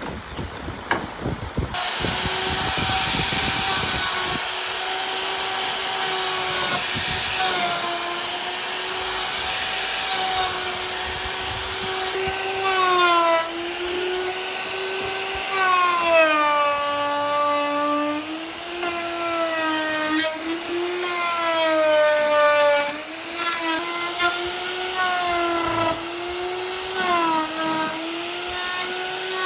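Electric power tool motor running with a steady whine that dips in pitch and recovers several times. There is a rough low rumble during the first couple of seconds.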